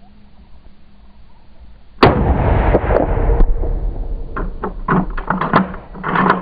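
A single hunting gunshot about two seconds in, followed by loud crashing and a string of knocks and rustles.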